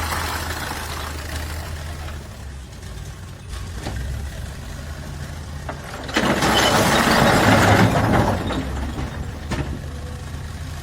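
Diesel engine of heavy construction machinery idling with a steady low hum. About six seconds in, a loud rushing noise lasting about two seconds rises over it, and a few short knocks sound at other moments.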